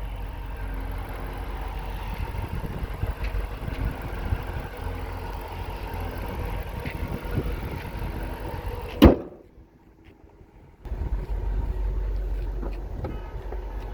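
The Dodge Challenger SRT-8's 6.1-litre HEMI V8 idling steadily with a low rumble. About nine seconds in there is a single loud thump, then the sound drops out almost completely for nearly two seconds before the idle returns.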